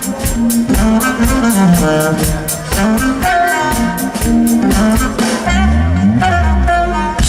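Live smooth-jazz band playing: drums keep a steady beat under a pitched melody line, and a deep bass note comes in about five seconds in.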